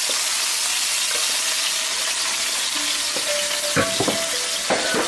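Minced onions sizzling steadily as they fry in a hot pan, with a few sharp knocks near the end.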